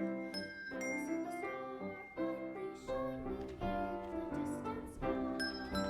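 Instrumental interlude of a Christmas song: keyboard music with struck piano-like notes over sustained chords, no singing.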